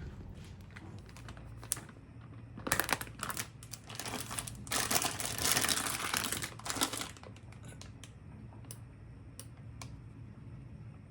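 Crinkling and rustling, as of a plastic wrapper or paper being handled, from about three seconds in until about seven, then a few separate sharp clicks.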